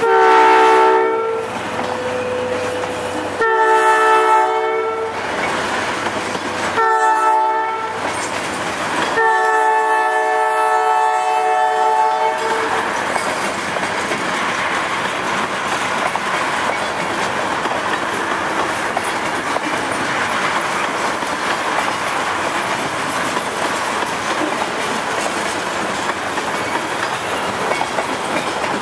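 Diesel locomotive air horn sounding the grade-crossing signal, two long blasts, a short one and a long one, ending about halfway through. A train of loaded tank cars then rolls steadily past, wheels clicking over the rail joints.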